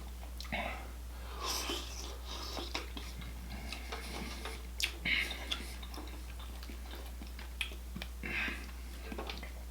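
Close-miked eating from a seafood boil: chewing, lip smacks, slurps and breaths come in irregular short bursts over a steady low hum.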